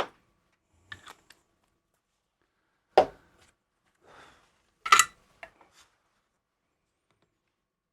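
A few separate sharp taps and clicks of small metal tools and parts being handled during soldering work, the loudest two about three and five seconds in.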